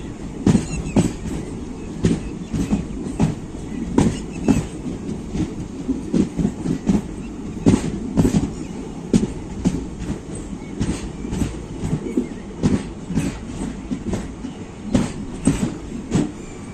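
Indian Railways express train running on the rails: a steady low rumble with frequent, irregular clacks of the wheels over rail joints.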